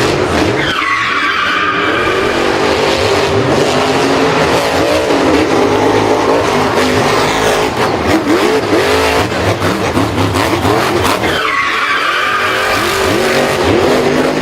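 Racing vehicle engines revving, with tyre skidding. The pitch sweeps down sharply about a second in and again near the end.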